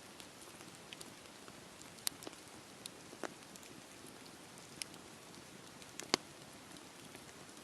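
Campfire burning with a soft steady hiss and scattered sharp crackles and pops, the loudest pop about six seconds in.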